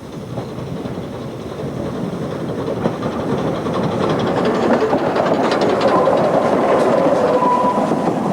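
Narrow-gauge train running past, growing louder over the first few seconds, with the wheels clicking over rail joints.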